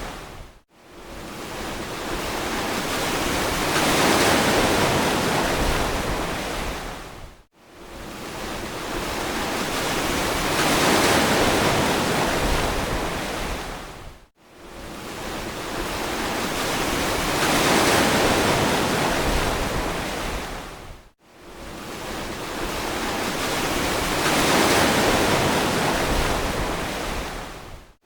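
Ocean surf washing ashore as a hissing wash that swells and recedes about every seven seconds. Between swells there are brief, abrupt drops to near silence.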